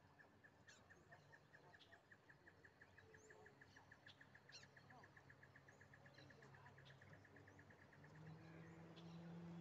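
Faint birdsong: one bird repeats a short high note about seven times a second and stops near the end, while other birds give scattered short chirps. A low hum comes up near the end.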